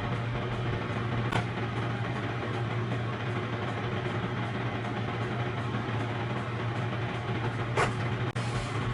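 A steady machine hum, like a running appliance motor or fan, with two short clicks, one early and one near the end.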